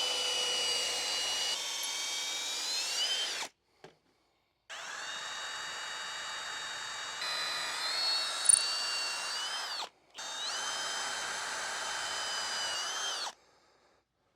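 Power drill boring into hard oak in three runs of a few seconds each, stopping briefly between them, its pitch shifting as each run ends; the bit is overheating in the hard wood. A sharp click about eight and a half seconds in.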